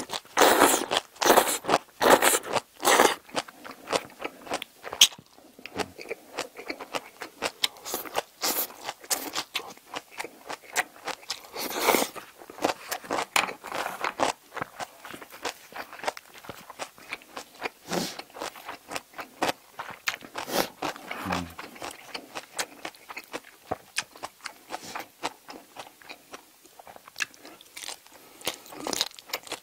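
Close-miked chewing of a mouthful of bean sprouts and braised seafood: rapid, irregular wet crunching and mouth clicks, with louder slurps and bites in the first few seconds.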